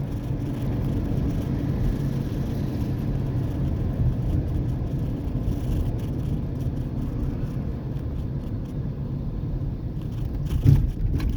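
Muffler-deleted 2003 Ford Ranger 4.0-litre V6, catalytic converters still fitted, with a steady exhaust drone and a deep tone while driving. A brief thump near the end.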